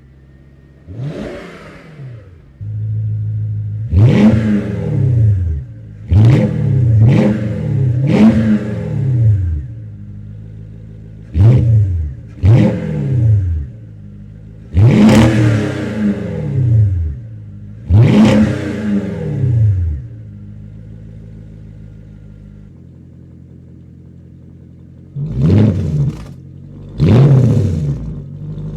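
Jaguar XK8's V8 idling through its exhaust and free-revved about ten times, each blip rising sharply and falling back to idle, with a quieter stretch of idle before the last two blips near the end.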